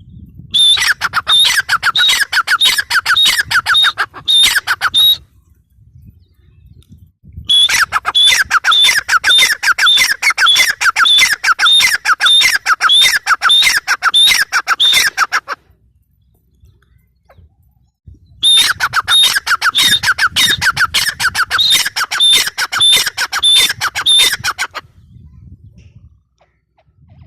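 Gray francolin (teetar) calling in three long bouts of rapidly repeated high notes, about four a second, with short pauses between the bouts.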